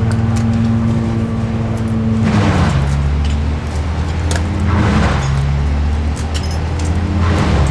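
A large engine running steadily at one pitch, with a rushing noise swelling up three times, about every two and a half seconds.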